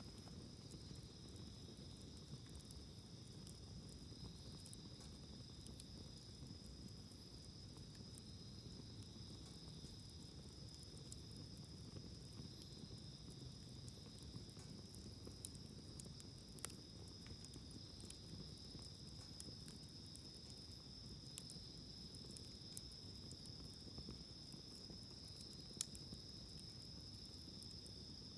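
Insects trilling steadily, with faint scattered crackles from a wood campfire and one louder pop near the end.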